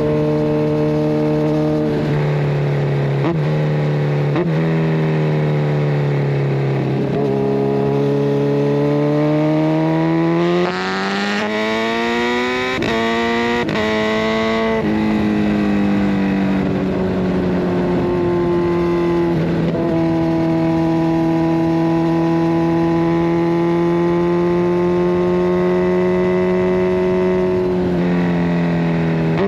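Kawasaki Ninja 1000SX inline-four running through a decatted Scorpion Red Power exhaust while riding: the pitch steps with gear changes, then climbs hard under acceleration with quick upshifts about halfway through, before settling into a steady cruise.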